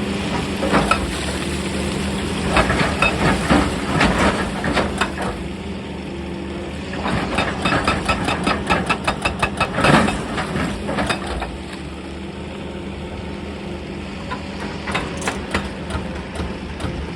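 Excavator's diesel engine running steadily, with two spells of rapid, clattering knocks as stone is broken, the second denser and loudest near its end.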